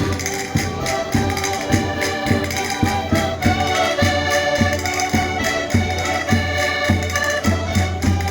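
Concertinas playing a lively folk tune in sustained reedy chords, over a steady low drum beat a little under twice a second.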